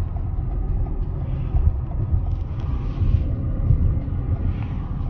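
Steady low rumble of a car driving, heard from inside the cabin, with a hiss that swells a few times as strong wind gusts against the car.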